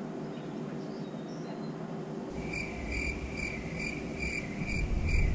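A high-pitched tone pulsing evenly about two and a half times a second starts a couple of seconds in, over a low rumble that also begins then.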